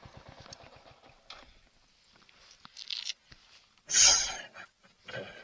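Motorcycle engine idling with an even pulse, then cutting out about a second and a half in. A few short rustling handling noises follow, the loudest a sharp burst about four seconds in.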